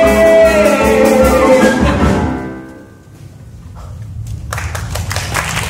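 A small pit orchestra and singer end a musical-theatre number on a long held final chord, with drum hits underneath, dying away about three seconds in. Audience applause starts up about four and a half seconds in.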